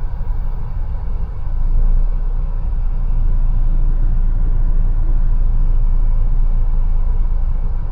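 Mercedes-Benz A180 driving: a steady low rumble of engine and road noise, a little louder from about two seconds in.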